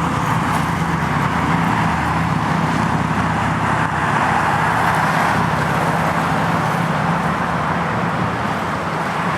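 Steady road traffic noise: a continuous rush of passing cars with a low engine hum underneath.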